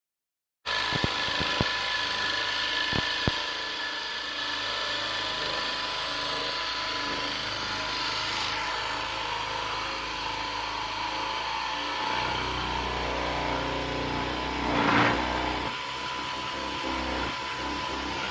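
CNC router spindle running with a 32 mm face-milling cutter, surfacing a workpiece: a steady whine with cutting noise that starts suddenly just under a second in. A few sharp clicks come in the first seconds, and the noise swells briefly about fifteen seconds in.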